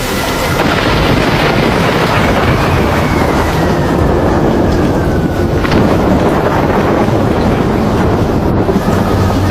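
Loud, steady storm noise: a dense rush with a low rumble underneath, and a faint whistling tone that slides down in pitch through the first half.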